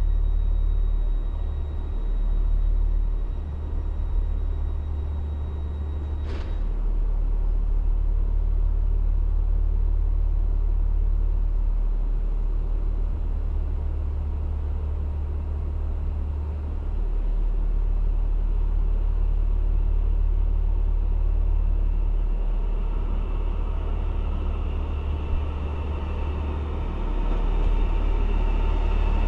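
Electric passenger train running, a steady low rumble with a single sharp click about six seconds in. Faint whining tones come in over the last several seconds.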